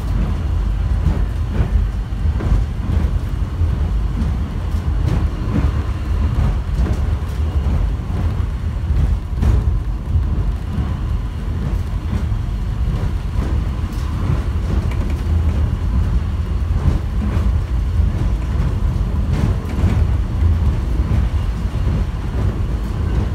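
Steady low rumble inside an airport subway train car, with a few faint knocks.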